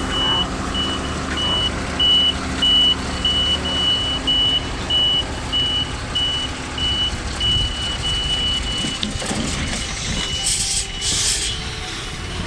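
A truck's reversing alarm beeping steadily at about two beeps a second over the engine running. Near the end there are two short hisses.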